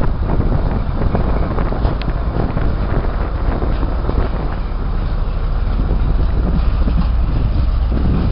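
A train running with a steady, loud rumble and many small rattles and clicks, with wind buffeting the microphone.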